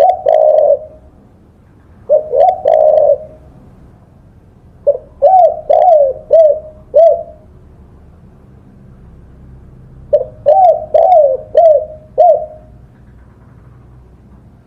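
Spotted dove (tekukur) cooing in repeated phrases: two short coo phrases at the start and about two seconds in, then two runs of about five quick coos starting about five seconds and ten seconds in.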